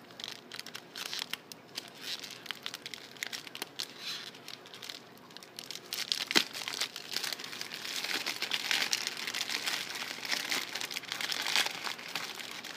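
Wrapping being crinkled and torn open by hand around a Lush bath ballistic, a steady run of crackling and rustling that grows busier and louder about halfway through, with one sharp snap.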